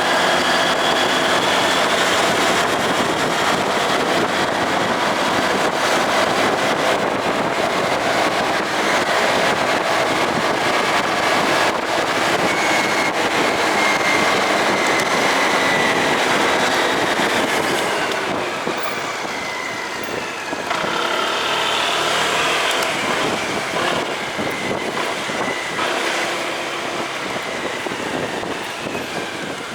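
Motorcycle engine running while riding, with road and wind noise. Its pitch rises and falls with speed; it eases off about eighteen seconds in and picks up again a few seconds later.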